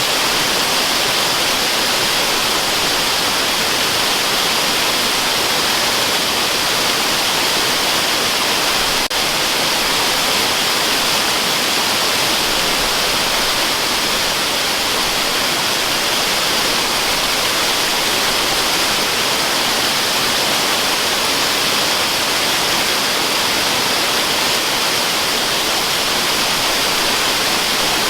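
Waterfall rushing in a steady, unbroken hiss that stays at one level throughout and leans bright and hissy rather than deep.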